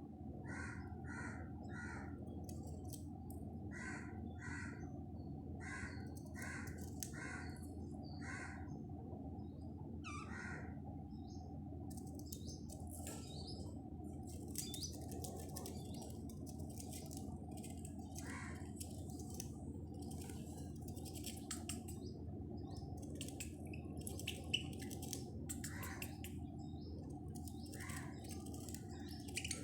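Caged budgerigars calling: a run of short, repeated squawks for the first ten seconds or so, then rapid, dense high chattering from several birds, over a steady low hum.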